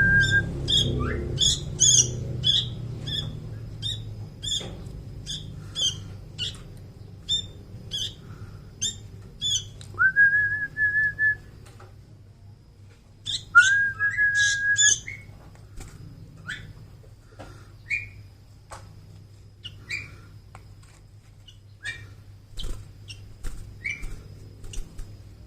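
Young sooty-headed bulbul (kutilang) giving short, sharp begging chirps over and over, about two a second at first and more spaced out later. Three held, level whistles cut in: one at the start, one about ten seconds in and one about fourteen seconds in.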